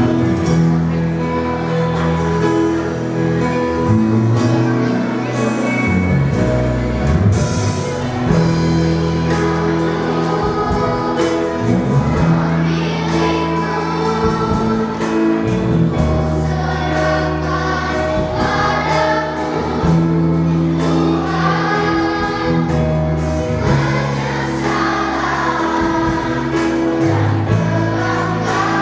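Children's Sunday school choir singing a hymn in unison, over steady instrumental accompaniment.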